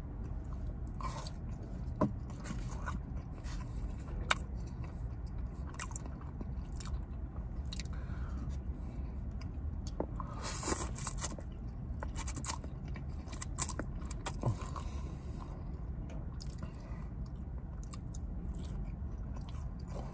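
Close-up mouth sounds of a person chewing and biting mouthfuls of chicken and noodles eaten with chopsticks: wet smacks and small clicks, with a louder slurp of noodles about ten seconds in. A steady low rumble runs underneath.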